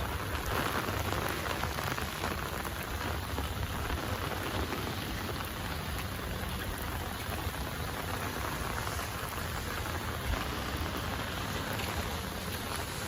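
Steady rain falling and pattering on surfaces, many small drop ticks over an even hiss, with a constant low rumble underneath.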